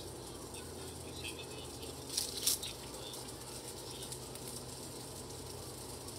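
Small songbirds chirping faintly a few times, with two quick flurries of wingbeats a bit over two seconds in as a bird takes off or lands at the feeders; a steady low hum runs underneath.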